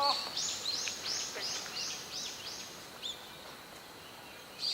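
A bird singing a quick run of about eight high, arched notes, evenly spaced and stopping about two and a half seconds in, with one further note shortly after.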